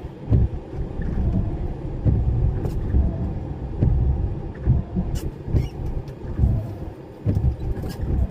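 DAF lorry driving, a deep uneven rumble of engine and road noise heard from inside the cab, with a few sharp clicks and knocks.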